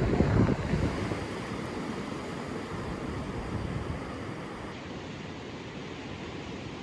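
Steady rush of sea surf mixed with wind buffeting the microphone. The wind is loudest in the first second, then the sound settles to an even wash.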